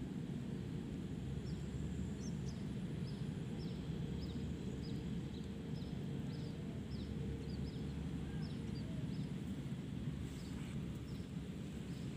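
A bird repeating short, high, falling chirps, about two a second, over a steady low rumble.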